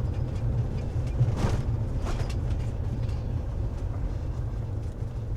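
Winnebago View motorhome driving slowly, heard from inside the cab: a steady low engine and road rumble, with a brief rattle about a second and a half in.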